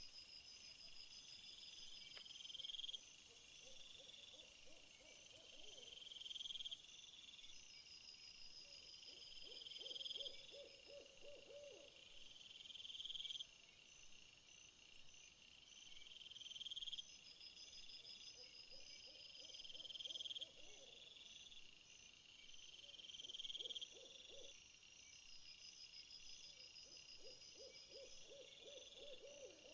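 Faint night-time nature ambience. Insects call in steady, repeating high chirping phrases, and a lower trilling animal call comes back every few seconds.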